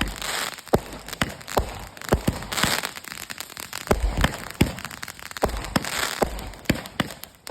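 Fireworks going off: a run of sharp bangs at irregular intervals, sometimes several a second, with stretches of crackling hiss between them.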